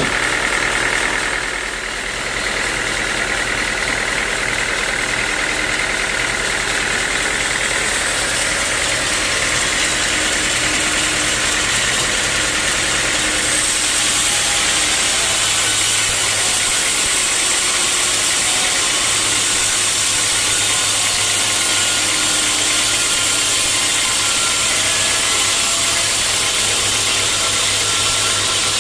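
Sawmill machinery running steadily: an engine hum under a constant hiss. About halfway through, the hiss brightens and the hum shifts in pitch.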